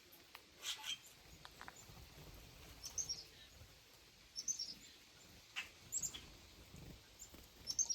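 Birds chirping: short, high calls every second or two over faint outdoor background noise.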